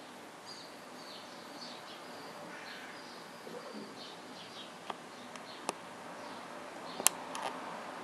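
Faint, scattered chirps of small birds over steady outdoor background noise, with a few sharp clicks in the second half, the loudest about seven seconds in.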